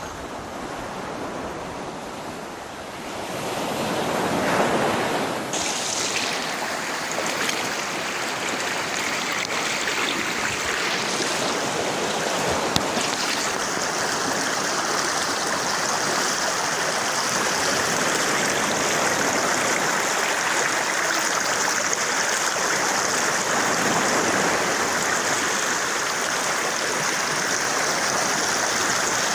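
Steady rush of flowing water from a stream or waterfall, swelling louder about four to five seconds in.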